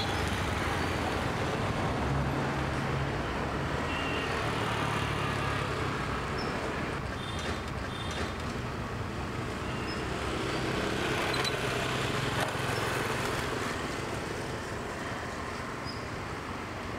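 Street traffic noise: a steady wash of road noise with the low hum of passing vehicle engines.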